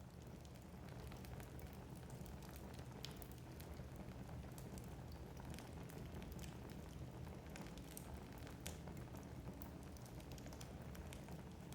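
Wood fire burning in a fireplace: scattered sharp crackles and pops from the logs over a faint, steady low rumble of the flames.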